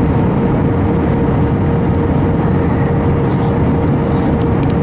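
Airbus A320 airliner heard from inside the passenger cabin: a steady roar of engines and rushing air, with a thin steady tone held on top.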